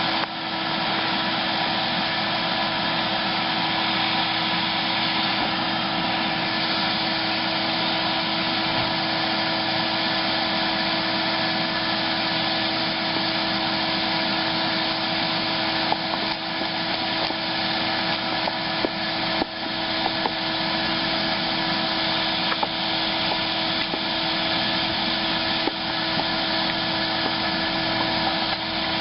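Bee vacuum's motor running steadily with a constant hum, with scattered short clicks and knocks in the second half.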